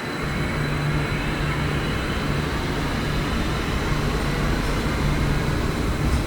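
Taipei Metro Wenhu line train running through the station: a steady rumble with a low pulsing hum and a thin, constant high whine.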